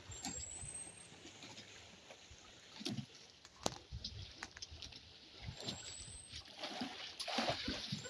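Water splashing and sloshing, with scattered small knocks, and a louder splash about seven seconds in.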